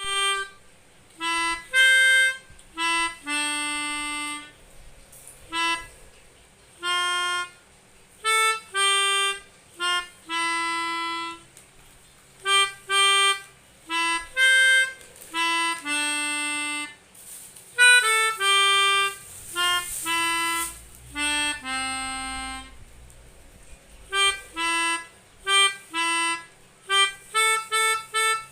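Pianika (melodica) playing a simple children's melody one note at a time. Most notes are short and detached, a few are held longer, and there are brief pauses between phrases.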